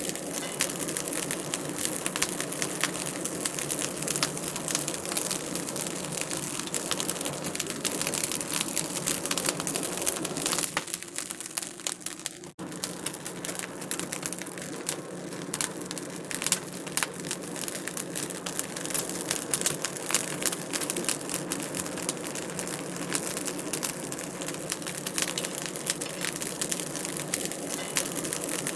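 Wood fire crackling, with dense small pops and snaps over a soft steady hiss. About eleven seconds in it briefly fades, then comes back with an abrupt cut.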